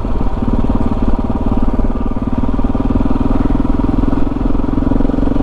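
KTM 640 Adventure R's single-cylinder thumper engine running steadily under way, its firing pulses in an even, fast beat.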